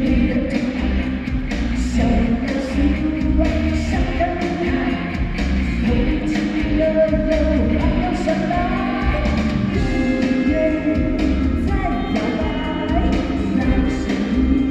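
A voice singing a song over instrumental accompaniment with a steady beat.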